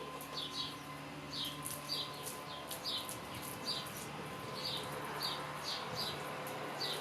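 A bird chirping over and over in short repeated notes, about one or two a second, with light clicks alongside.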